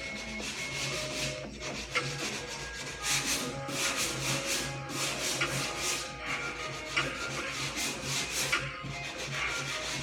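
Sandpaper rubbing on a car's hood panel in rhythmic back-and-forth strokes, about two a second, with background music.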